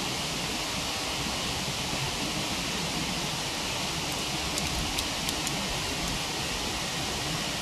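Steady rushing of a waterfall, with a few faint crackles from a wood fire about halfway through.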